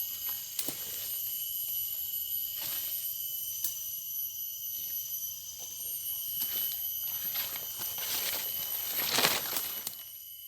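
Repeated brief rustling and flapping swishes, the loudest about nine seconds in, over a steady high-pitched ringing chorus of several tones.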